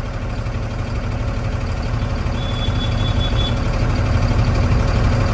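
Truck engine running under way, a steady low drone that grows gradually louder. A short, thin high-pitched beep sounds for about a second, a little over two seconds in.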